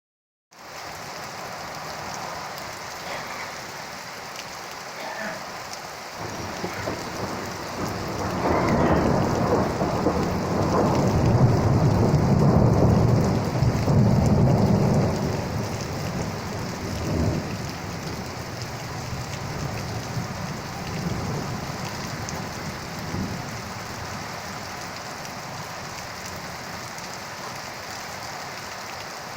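Steady rain falling, with a long roll of thunder that builds about a quarter of the way in, rumbles loudest through the middle and fades away before the end.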